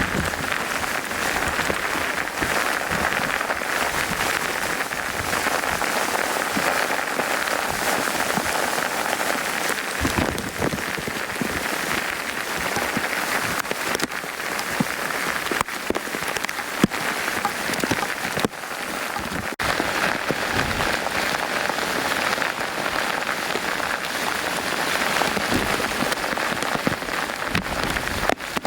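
Heavy rain falling steadily, a dense even hiss of drops striking surfaces, with scattered sharper splats of individual drops close by.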